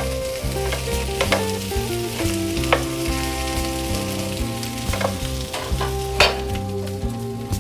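Diced potatoes and capsicum sizzling in a frying pan while a wooden spatula stirs and scrapes through them, with several sharp knocks of the spatula against the pan.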